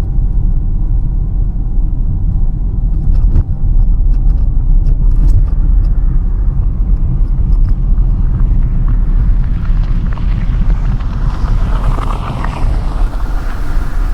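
Steady low road and engine rumble heard inside a moving car's cabin. From about two-thirds of the way in, a hiss swells and then eases off near the end, the sound of an oncoming car passing.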